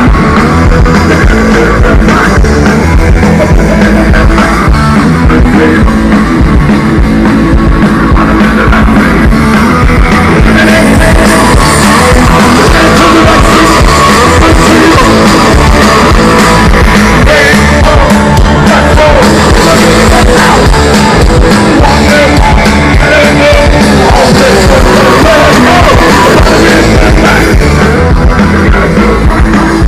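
Live rock band playing loud, with singing over it.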